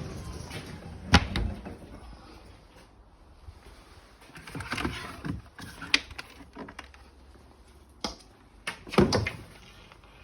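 Scattered knocks and clatters of things being handled, with a loud knock about a second in and a burst of clattering near the end.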